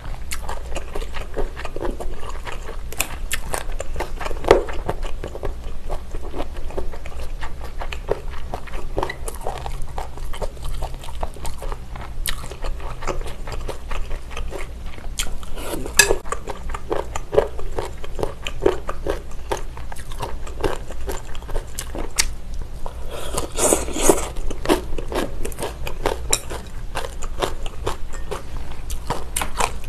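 Close-miked chewing and biting of abalone mulhoe: raw abalone, vegetables and noodles in cold broth, with wet mouth clicks and crunching. Now and then chopsticks tap against the glass bowl. A louder, noisier stretch of eating comes about three-quarters of the way through.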